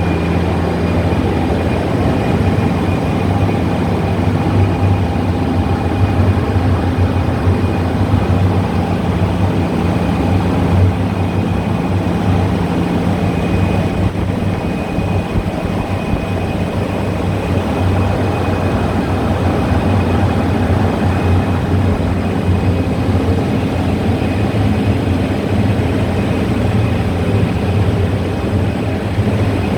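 Turbocharged Volvo B5244S five-cylinder engine idling steadily, with no revs.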